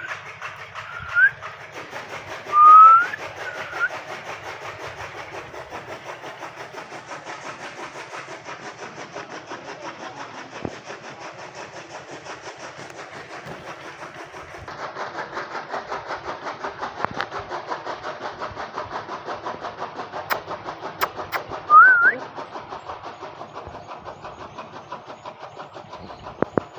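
Indian ringneck parakeet giving short rising whistled calls, three in the first four seconds and one more about twenty-two seconds in, over a steady, rapidly pulsing machine-like noise.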